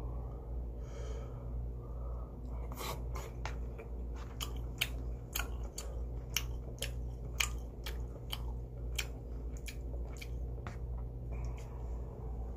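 A person chewing marinated pork ribs (pork galbi) with mouth noises, a run of sharp wet clicks and smacks at about two a second, over a steady low hum.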